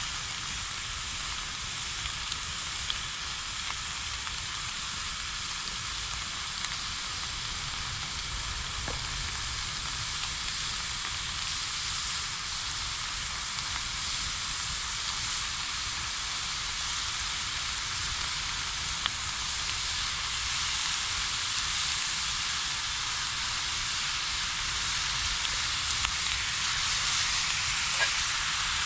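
Food frying in a pan over a campfire: a steady sizzle, with a few faint pops and crackles.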